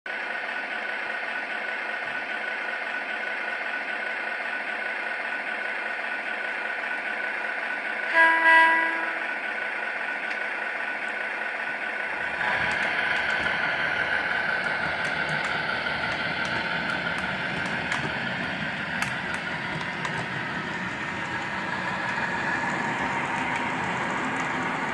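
Model train's electronic horn sounding one short two-part blast, then the train running along the track with a steady rumble and scattered clicks of the wheels over the rail joints.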